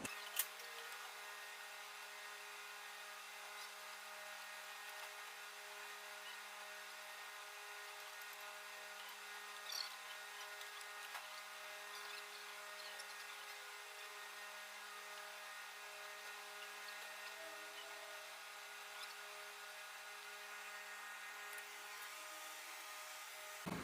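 A faint, steady mechanical hum, with a few faint clicks and taps.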